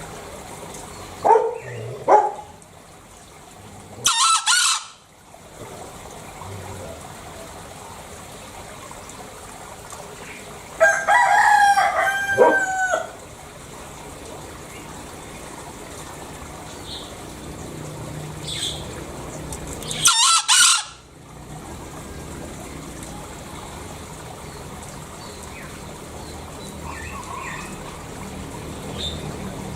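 Green junglefowl (Gallus varius) calling: two short notes near the start, then three loud hoarse crows spaced several seconds apart, over a faint steady background.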